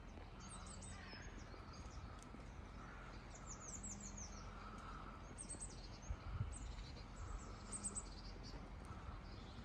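Small birds chirping and singing faintly, in a series of short, high, rapid trills and chirps, over a low steady background. There is a soft knock about six seconds in.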